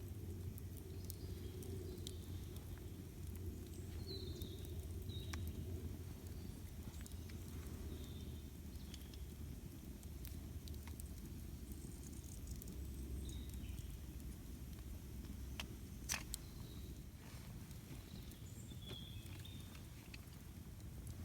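Campfire burning with scattered crackles and one louder pop about three-quarters of the way through, over a low steady rumble. Birds chirp faintly now and then.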